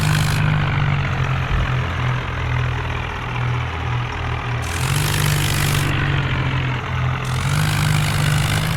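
Diesel tractor engines running hard under heavy pulling load: a steady low drone whose pitch wavers slightly, with a hiss that comes and goes above it.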